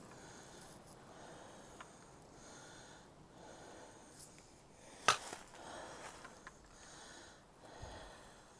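Heavy, rhythmic breathing of a hiker working uphill, about one breath every second and a half. A single sharp click about five seconds in.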